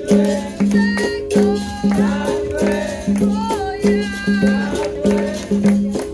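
Capoeira roda music: berimbau strokes repeating in a steady rhythm under a shaken rattle and hand percussion, with voices singing over them.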